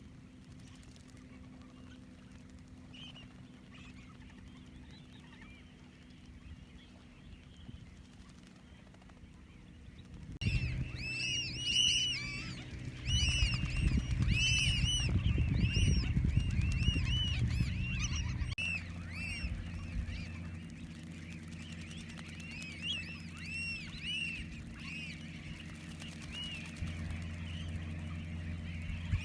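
A flock of birds calling: many short, high chirps in quick succession that start abruptly about ten seconds in and go on to the end, over a steady low hum.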